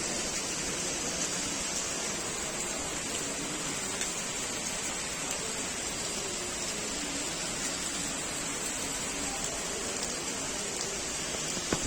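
Steady rain falling: an even, continuous hiss with faint pattering of drops.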